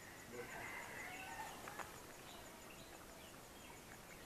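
Faint bird calls, mostly in the first two seconds, over quiet outdoor background.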